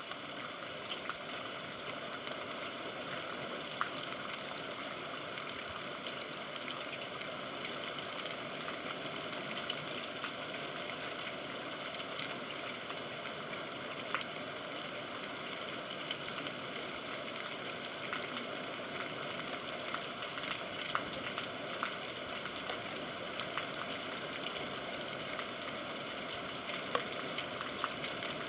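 Steady rain falling: an even hiss with scattered sharp ticks of drops striking.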